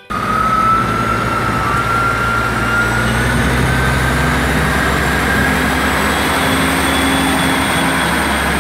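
Class 158 diesel multiple unit pulling away, its diesel engines running under load with a whine that slowly rises in pitch as it picks up speed.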